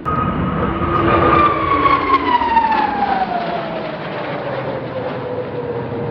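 Jet engines of Al Fursan's Aermacchi MB-339 display jets passing close by: a loud rushing whine that comes in at once, then falls steadily in pitch over several seconds as the jets pass.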